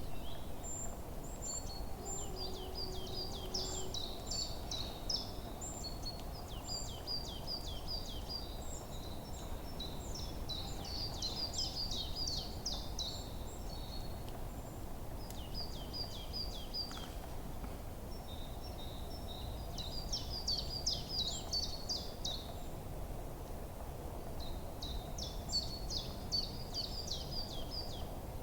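Forest birdsong: songbirds singing repeated quick, high, chirping phrases, with short pauses between bursts, over a steady low background hiss and rumble.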